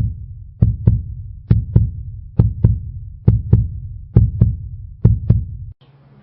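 Heartbeat sound effect: loud, deep double thumps, a lub-dub about once a second, that stop abruptly near the end, leaving a faint steady hum.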